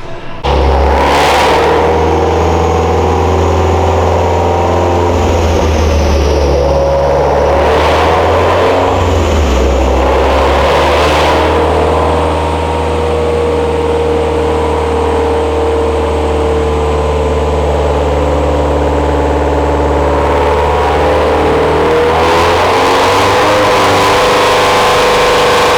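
Turbocharged car engine run hard on a chassis dyno, coming in loud about half a second in and holding at a fairly steady pitch under load, with a few short sharp bursts of noise along the way.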